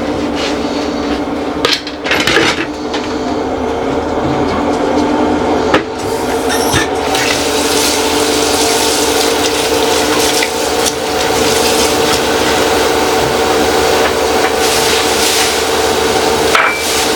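Water running steadily from a kitchen tap into a sink, with a few short knocks and clatters of things being handled.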